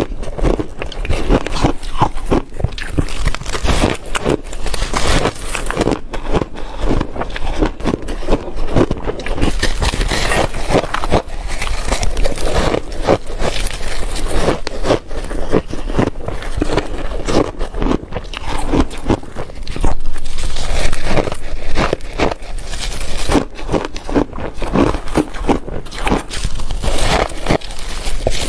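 A person biting and chewing ice: a continuous, irregular run of sharp crunches and cracks.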